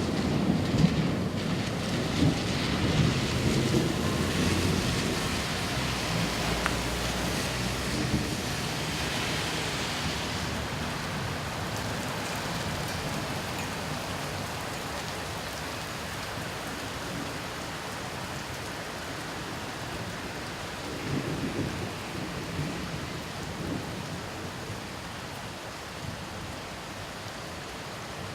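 Thunder rumbling over steady rain. A long rumble dies away over the first several seconds, and a shorter, fainter rumble comes about three quarters of the way through.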